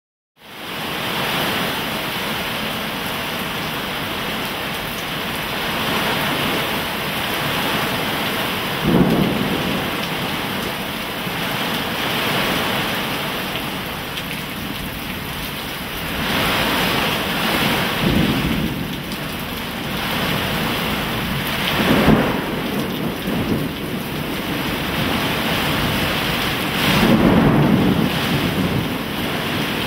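Heavy rain pouring in a severe thunderstorm, a dense steady hiss that starts suddenly about half a second in. A few louder, deeper surges come through, at about 9, 18, 22 and 28 seconds.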